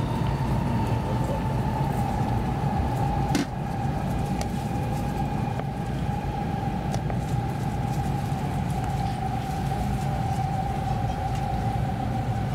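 Inside an N700S 8000-series shinkansen slowing for a station: a steady low running rumble with a whine that slowly falls in pitch as the train decelerates. A single click about three and a half seconds in, after which it is slightly quieter.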